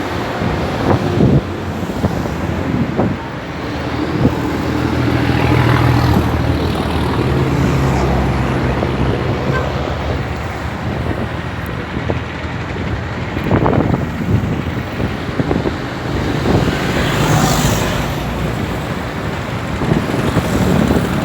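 Small tugboat's engine running steadily, over a haze of wind and water noise, with a few brief louder noises.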